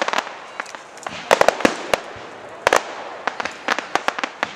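Fireworks going off: many sharp cracks and bangs at irregular intervals, some in quick clusters, over a steady hiss.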